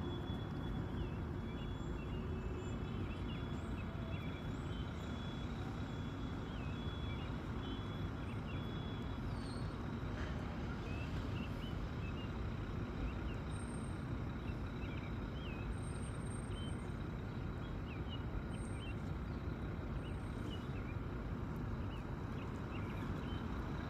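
Steady low rumble of road traffic, with many short, high peeps from goslings scattered throughout.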